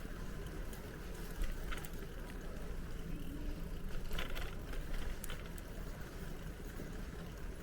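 Riding a bicycle: a steady low rumble of tyres and wind on the microphone, with a few small clicks and rattles.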